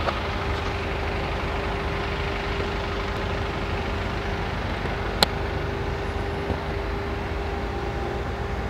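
Motor vehicle engine and road traffic, a steady low rumble with a constant hum, and one sharp click about five seconds in.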